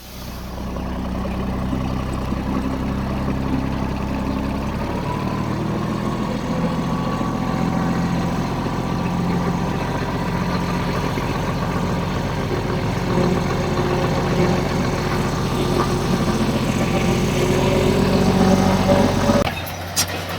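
Heavy diesel engine of earthmoving machinery running steadily. It turns harsher about five seconds in, grows a little louder toward the end, and cuts off abruptly near the end.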